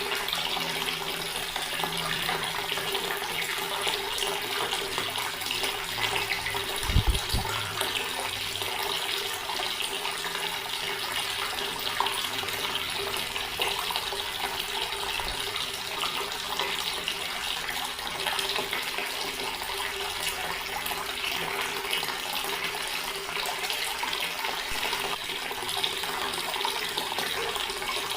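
Water from a tap running steadily into a stone basin, a continuous splashing stream. A brief low thump comes about seven seconds in.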